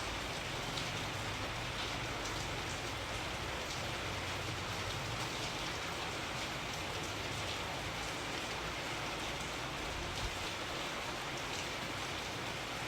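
Steady rain falling and pattering on a surface, a dense even hiss with a low rumble underneath.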